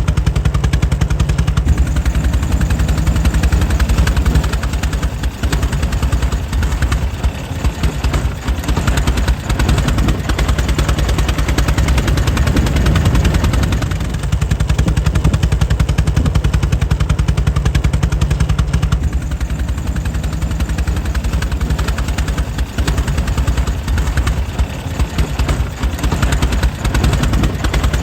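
Air-cooled 1904 Mitchell engine running steadily, a rapid, even train of firing beats with slight dips in loudness now and then.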